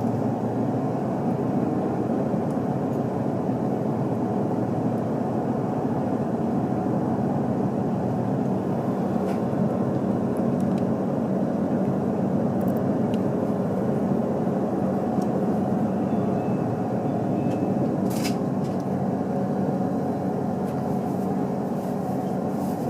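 Steady running noise of a JR Central HC85 series hybrid diesel-electric train, heard from inside the passenger cabin. Faint clicks and rattles come and go, with one sharper click about 18 seconds in.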